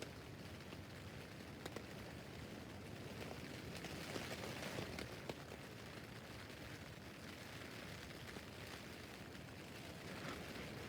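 Rain falling steadily on a tent roof, a soft even hiss with scattered sharper taps of individual drops on the fabric.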